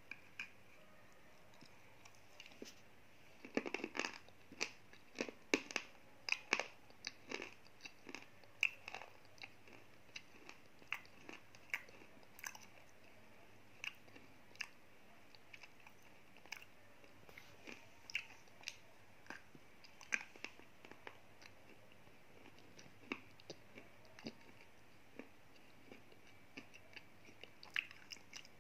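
Slate pencil being bitten and chewed close to the microphone: sharp, gritty crunches. A fast run of crunches comes a few seconds in, then slower crunches scattered apart.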